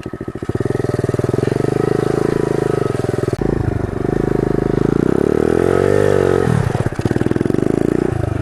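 Pit bike engine running under throttle while riding on dirt, its pitch rising and falling with the throttle. The throttle closes briefly about three and a half seconds in, then the engine revs up and back down in one long swell about five to six and a half seconds in.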